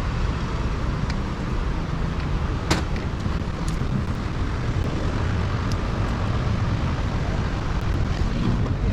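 Steady road-vehicle noise with a low rumble, with one sharp click about three seconds in.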